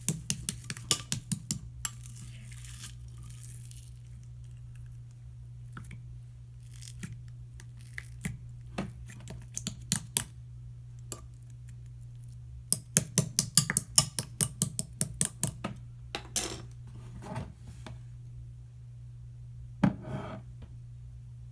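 Marbled slime being worked by hand, giving bursts of sharp sticky clicks and pops. There is a quick run of clicks at the start and a longer, denser run a little past halfway, over a steady low hum.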